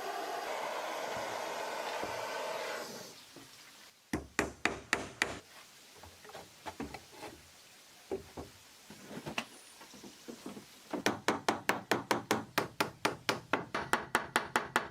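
A steady machine noise cuts off about three seconds in, followed by a hammer striking wood: a quick run of blows, a few scattered taps, then a long fast run of about five blows a second.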